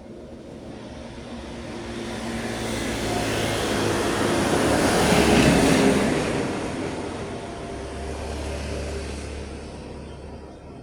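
A road vehicle driving past: engine and tyre noise swell to a peak about five seconds in and then fade, with a smaller second swell near the end.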